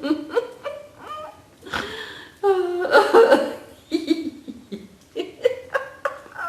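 Laughter-yoga laughing: several bouts of hearty vocal laughter with rising and falling pitch, broken into short pulses.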